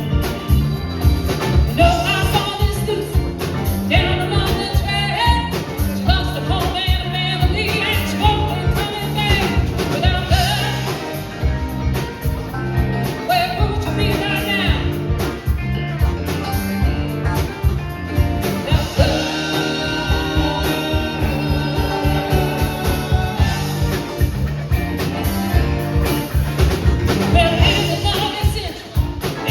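Live rock band playing with a lead vocal over drums and bass, a steady driving beat throughout.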